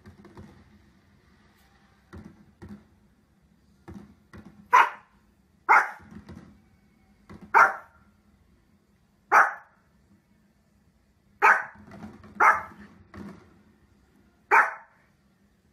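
Small fluffy dog barking: a few soft sounds, then seven sharp single barks spaced one to two seconds apart, starting about five seconds in.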